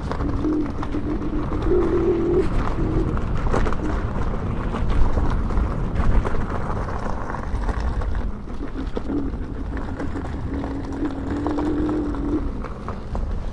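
Inmotion V12 HT electric unicycle ridden along a dirt trail: a low motor hum that comes and goes, stepping up and down in pitch, over a steady low rumble and scattered knocks from the tyre going over bumps.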